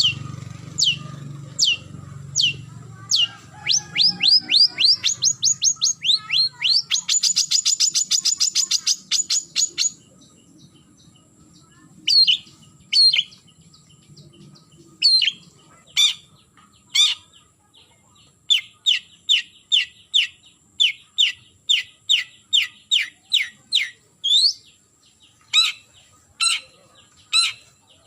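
Long-tailed shrike (cendet) calling to challenge a rival: repeated sharp down-slurred notes, a fast run building into a rapid trill, then after a brief pause scattered harsh notes and a steady series of about three notes a second.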